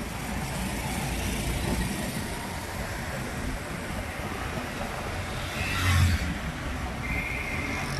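Street traffic heard from a moving bike, with steady wind and road rush. A vehicle passes close and loud about six seconds in, and a short steady high tone like a horn sounds about a second later.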